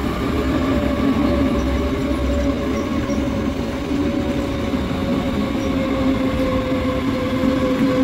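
Red electric multiple-unit train running past along the platform, with a rumble of wheels on rails and a steady electric motor whine that slowly drops in pitch.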